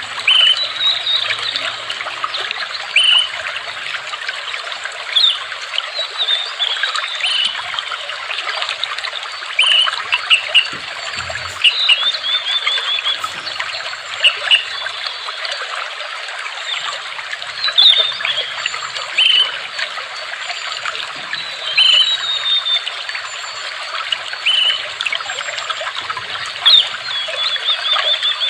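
Water trickling steadily, with birds chirping over it: short repeated chirps and a few quick trills, several times a second in places.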